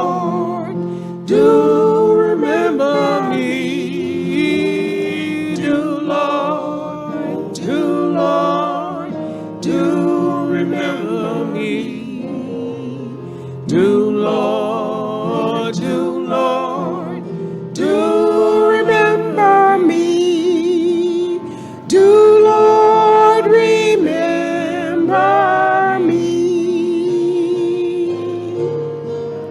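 A vocal quartet singing a gospel song in long phrases with vibrato, breaking between lines, over steady low accompaniment.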